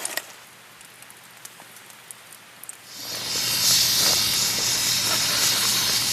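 A pressure cooker on a wood fire starts hissing steadily through its valve about three seconds in, a sign that it has come up to pressure and the chicken is cooking. Before that there are only a few faint ticks.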